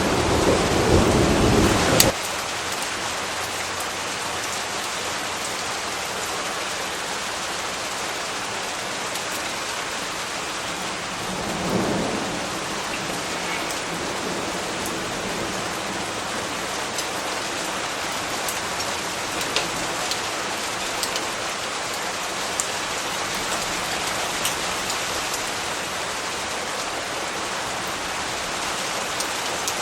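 Steady rain falling, with a loud rumble of thunder that cuts off abruptly about two seconds in and a short, softer roll of thunder near the middle.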